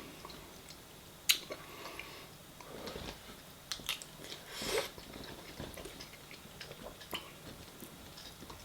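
Close-miked chewing of a mouthful of food, with scattered wet mouth clicks. There is a sharper click about a second in and a short breathy rustle about halfway through.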